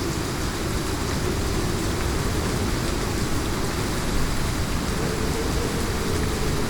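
Heavy rain falling steadily in a rainstorm, an even hiss with a deep low rumble beneath it.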